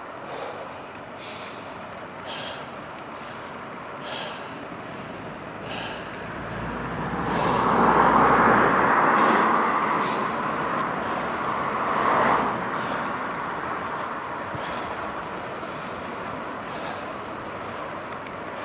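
A motor vehicle passing the moving bike: its noise swells to a loud peak about eight seconds in, rises again briefly near twelve seconds, then fades, over steady road and wind noise with faint regular ticks.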